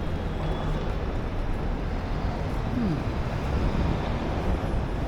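Steady low rumble of outdoor city background noise, such as distant traffic, with a short falling tone about three seconds in.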